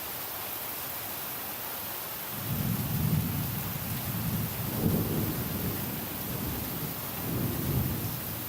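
Steady hiss of heavy rain, with a long roll of thunder that starts about two seconds in, swells three times and fades away near the end.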